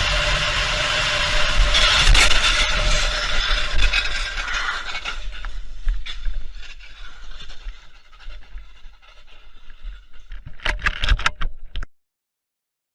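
Vehicle and road noise picked up by a dash cam, loud for the first few seconds and then fading. Near the end comes a quick cluster of sharp knocks, and then the sound cuts off suddenly.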